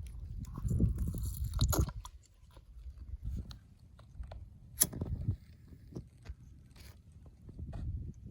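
Crunching and rustling handling noise with scattered sharp clicks, as camp gear is unpacked and set up for a small stove; it is busiest in the first two seconds, with one sharp click about five seconds in.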